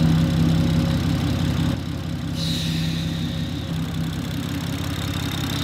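BMW B58 turbocharged straight-six idling steadily with a newly fitted big single ball-bearing turbo. About halfway in, a thin high whine slides down and then holds steady over the engine.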